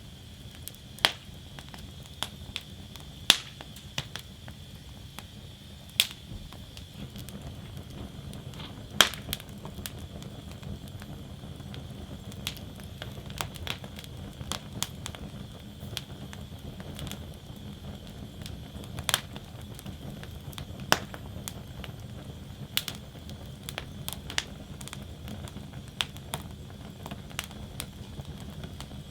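Wood fire burning in a fire basket: irregular sharp crackles and pops, about one every second or two, over a steady low rumble of the flames.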